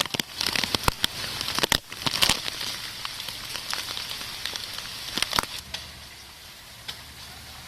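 Rain falling hard, a steady hiss with many sharp crackles of drops striking close by; it eases and gets quieter a little over two-thirds of the way through.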